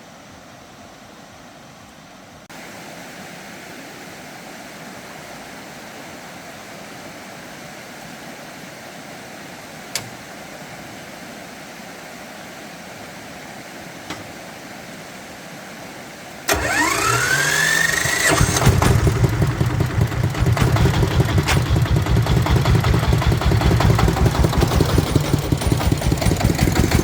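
Tractor engine started on its electric starter: a rising starter whine for about two seconds, then the engine catches and runs on at a fast, steady idle. Before the start there is only a low background hum and a single click.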